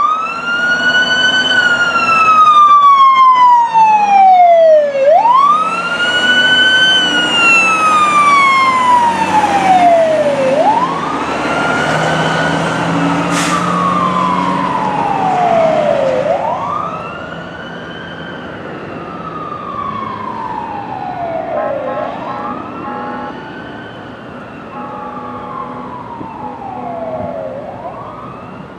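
Fire truck siren wailing in slow cycles, each a quick rise in pitch and a long fall, repeating about every five and a half seconds. It grows fainter after about sixteen seconds as the truck moves away.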